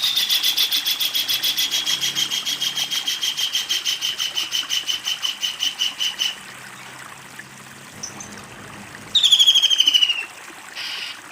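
Kingfisher giving its long, fast rattling call: a run of rapid repeated notes that slowly drops in pitch for about six seconds, then, after a pause, a second short, loud burst of the same falling rattle.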